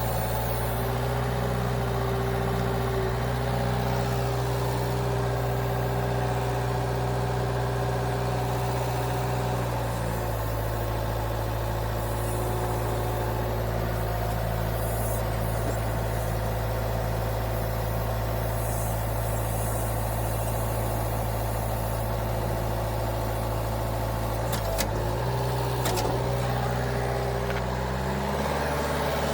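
Engine of the machine lifting the log onto the sawmill, running steadily at raised throttle. Its pitch drops a little about ten seconds in, two sharp clicks come near the end, and the engine speeds up just before the end.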